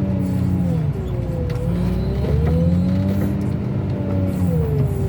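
Diesel engine of a heavy scrap-car handling machine revving up and down under load, its pitch rising and falling twice, with rain falling steadily.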